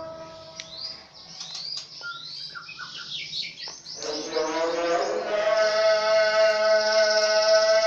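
Birds chirping in quick, repeated sweeps. About four seconds in, a voice starts chanting one long held note over them.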